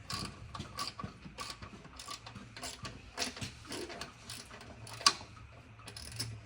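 Socket ratchet clicking in short, irregular strokes as a bolt is worked loose, with one sharp metallic clink about five seconds in.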